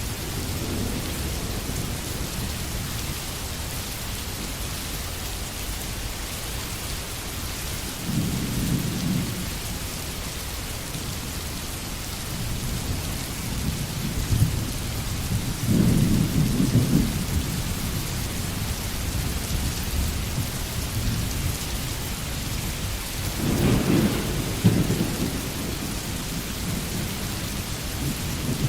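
Steady rain with low rumbles of thunder rolling in three times, each lasting a second or two.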